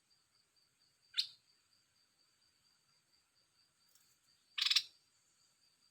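A caged songbird gives two short calls about three and a half seconds apart, the second a little longer, over a steady high insect drone.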